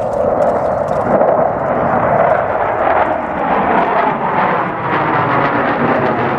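Jet noise from low-flying McDonnell Douglas F/A-18 Hornets with twin turbofan engines: a loud, steady rush that swells up just before and holds throughout.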